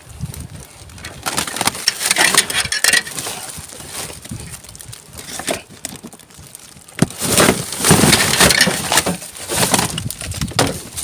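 Rummaging through rubbish in a bin: irregular rustling, crunching and clattering as items are pushed aside and lifted out, in two busier spells.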